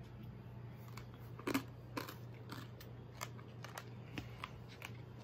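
Someone eating crème brûlée: faint, irregular small crunches and clicks of chewing the hard caramelised sugar top, over a steady low hum.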